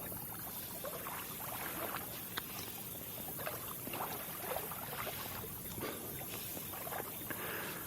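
Faint water lapping, with many small, irregular ticks and splashes.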